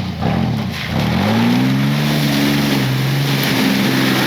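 Truck engine revving up about a second in and holding high revs under load, with a small further rise near the end, as the truck strains in mud and may be stuck.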